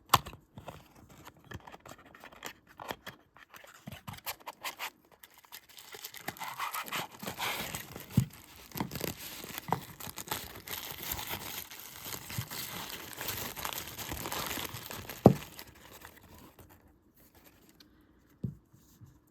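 A knife box being opened and unpacked by hand: packaging rustling and crinkling, with many small clicks and handling knocks and one sharp knock about fifteen seconds in, then it goes quiet near the end.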